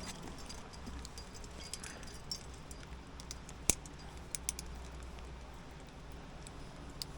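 Metal climbing gear clinking lightly and sparsely while a hollow-block friction hitch is wrapped around a wet rappel rope, with one sharper click about halfway through and a few more soon after.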